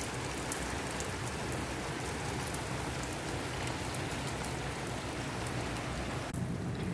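Steady rain falling: an even hiss with scattered sharp drop ticks. The hiss thins abruptly near the end.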